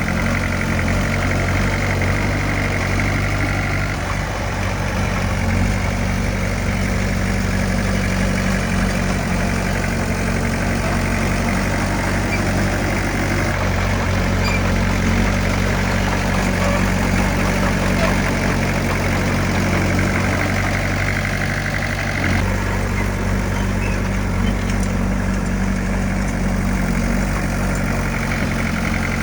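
Heavy earthmoving machine's diesel engine running steadily, its note shifting slightly a couple of times.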